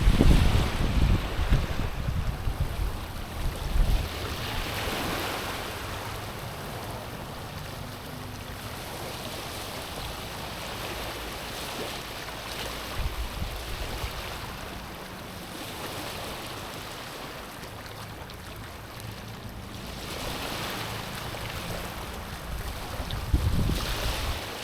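Small waves washing in and lapping against a stony, rocky shore, the surf swelling and easing every several seconds, with low rumbling surges near the start and again near the end.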